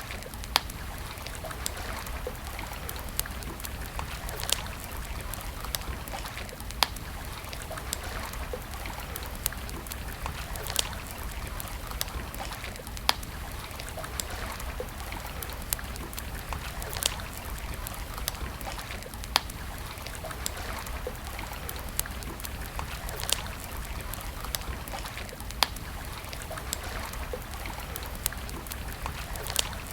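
Campfire crackling: sharp wood pops and snaps every second or two, some louder than others, over a steady hiss.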